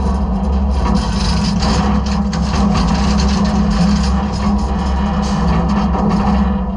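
Side-loader garbage truck running with a steady low drone while trash and debris in the hopper scrape, rattle and crack.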